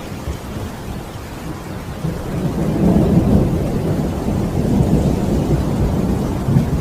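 Rainstorm with low rumbling thunder, the rumble swelling louder about two and a half seconds in.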